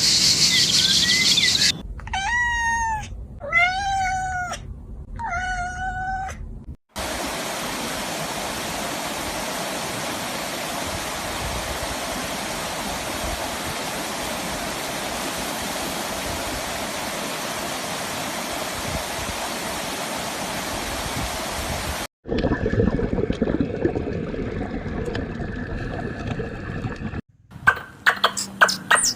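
A cat meowing three times, each call rising and then falling away, followed after a cut by a long stretch of steady hiss-like noise. After another cut there is a mixed noisy passage, and near the end a run of quick, sharp calls begins.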